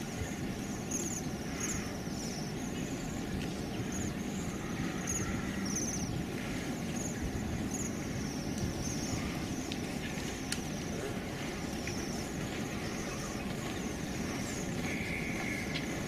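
High, short chirping bird calls repeating for the first several seconds, over a steady low outdoor rumble. A brief whistled note comes near the end.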